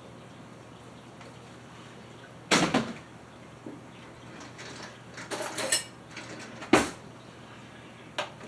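Kitchen clatter of dishes and utensils: a few separate knocks and clinks, the loudest about two and a half seconds in and another sharp one near seven seconds, with a quick run of smaller clinks between them.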